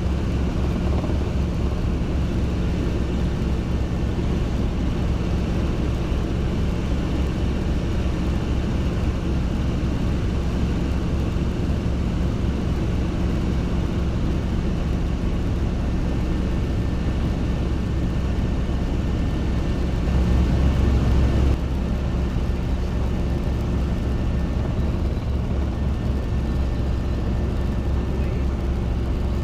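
Robinson R22 helicopter in flight: the piston engine and rotors drone steadily in the cabin. A low rumble swells briefly louder about twenty seconds in, then settles back to the steady drone.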